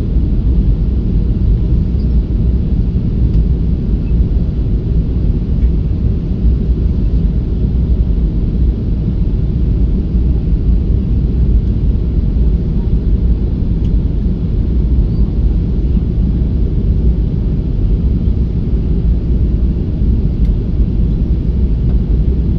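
Boeing 737-500 jet engines and airflow making a steady, low rumble during the landing.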